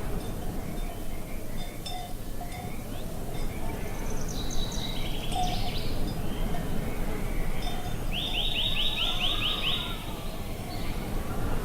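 Songbirds calling over a steady low background rush: a cluster of quick high chirps about four seconds in, then a fast trill of about nine sweeping notes around eight seconds in.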